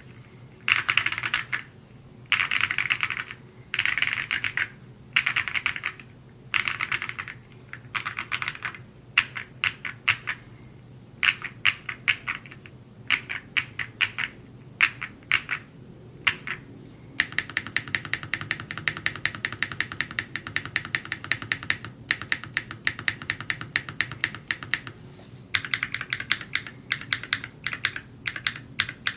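Typing on an Evo80 custom mechanical keyboard: quick runs of keystrokes with short pauses between them, then an unbroken stretch of fast typing from about two-thirds of the way through.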